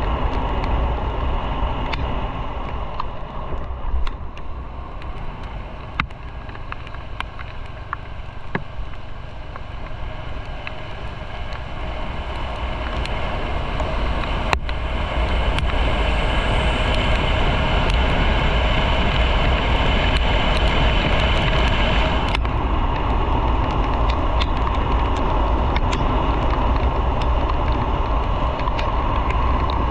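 Motorcycle engine running under way with road and wind noise. It eases off and quietens for several seconds, then grows louder again about halfway through, with a few sharp ticks.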